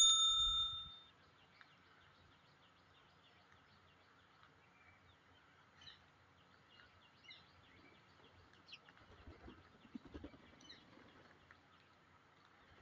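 A struck metallic ding rings out and dies away within the first second. Then faint, scattered short parrot chirps and calls, with some soft rustling in the last few seconds.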